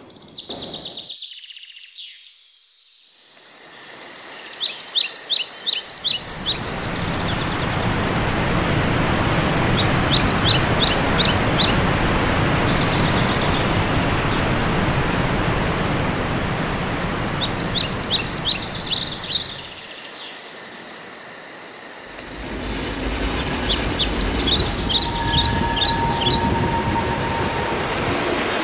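Recorded Flåm Railway train passing: rumble of wheels on rail swelling up a few seconds in, easing off, then building again with a steady high wheel squeal. A bird sings a short trill over it four times, about every six or seven seconds.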